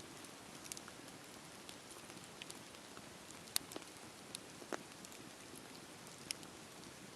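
Campfire burning with a steady low hiss and scattered sharp crackles and pops from the burning wood. The loudest pops come at about three and a half seconds, just under five seconds and a little past six seconds.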